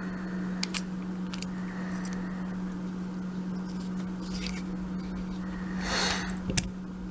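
Faint, sparse small clicks and taps of a euro lock cylinder and its parts being handled during disassembly, over a steady low electrical hum, with a brief rustle and a sharper click near the end.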